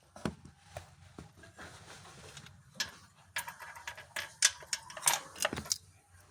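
Irregular clicks, knocks and light scraping of hand tools and engine parts being handled during a car tune-up, busier in the second half.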